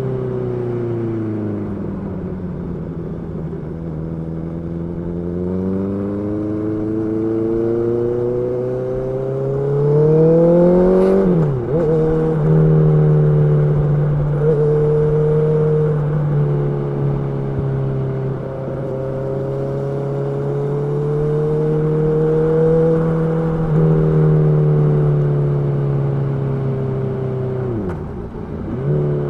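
Honda CB650R's inline-four engine running under way: revs climb, drop sharply at a gear change about eleven seconds in, then hold fairly steady at cruising speed, with another quick shift near the end.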